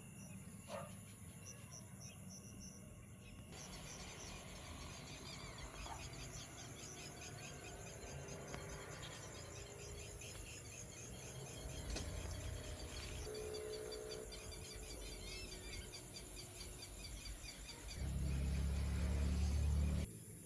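Night insects, crickets among them, chirping in rapid pulsed trills. Near the end a low rumble rises for about two seconds.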